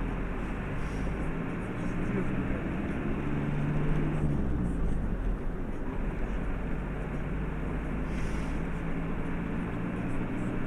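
Car engine and road noise heard from inside a moving vehicle, steady throughout, with the engine note shifting slightly about four seconds in.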